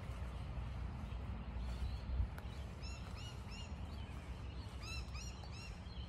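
A bird calling in a run of short arched notes, three about halfway through and four more near the end, over a low rumble of wind on the microphone. A single soft thump sounds about two seconds in.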